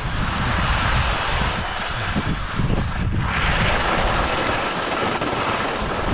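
Wind buffeting the microphone, a low fluctuating rumble under a steady hiss that gets louder about three seconds in.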